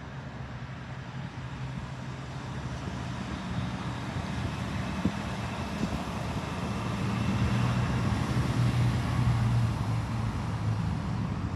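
A motor vehicle's engine running steadily with traffic noise; it grows louder from about halfway through and eases slightly near the end, as a vehicle passing close by would.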